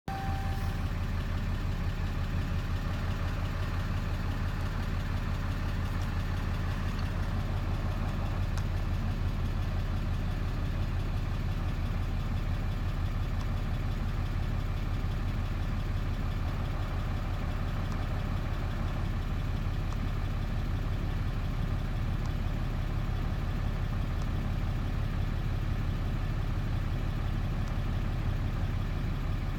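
Dodge pickup truck's engine idling steadily, with a short beep right at the start.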